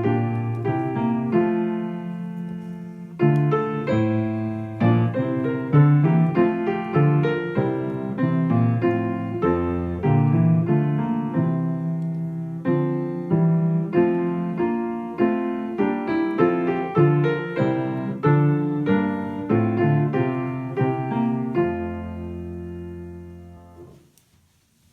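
Solo piano music, a steady stream of notes, closing on a held low chord that fades out near the end.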